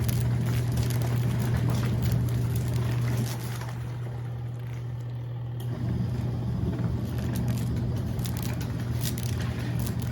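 Small portable washing machine motor humming steadily as it churns water in the tub, with sloshing and splashing. The motor eases off for a couple of seconds about three seconds in, then picks up again.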